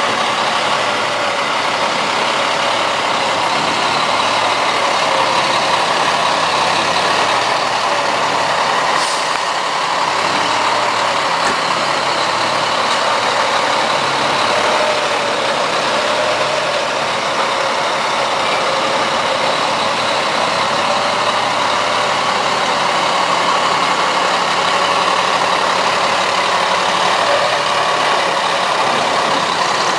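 Truck engine running steadily, its level holding even throughout.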